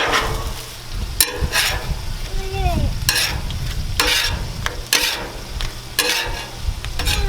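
Taco shells frying in oil on a Blackstone flat-top griddle, sizzling steadily, with a metal spatula scraping and clicking against the griddle surface several times.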